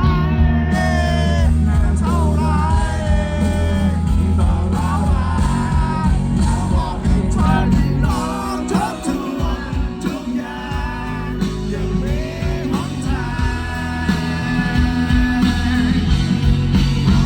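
Rock music: a band playing with a voice singing a wavering melody over steady bass.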